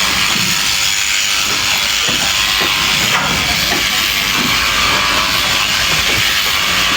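Sheep-shearing handpiece running as it cuts through fleece: a steady, even hiss with no breaks.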